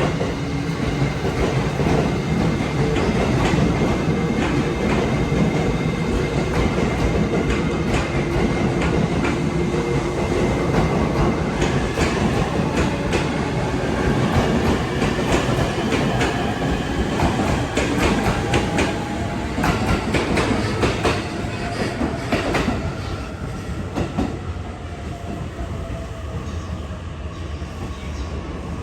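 E653 series electric train pulling out and rolling past, its wheels clacking over rail joints under a steady rumble with whining tones that slowly shift in pitch. The sound grows fainter in the last few seconds as the train moves away.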